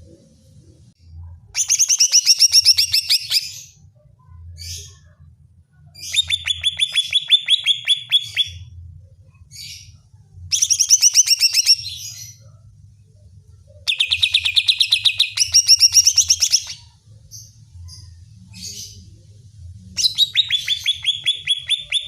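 Cucak ijo (green leafbird) singing: five bursts of fast, rapidly repeated whistled notes, each lasting two to three seconds, with short single calls in the gaps between bursts.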